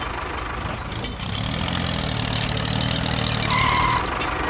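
Engine idling sound from a toy construction vehicle, a steady low rumble, with a steady high beep starting near the end like a reversing alarm.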